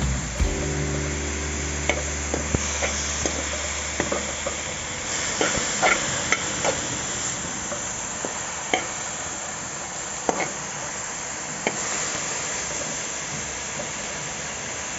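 Chopped pumpkin leaves frying in coconut oil in a wok, sizzling steadily. A metal spoon scrapes and clicks against the pan now and then as they are stirred, several times in a quick cluster around the middle.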